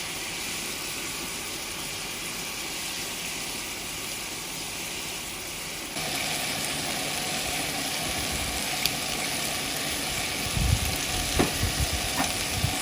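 Chicken wings sizzling as they cook in sauce: a steady frying hiss that jumps louder about six seconds in. A few low knocks near the end.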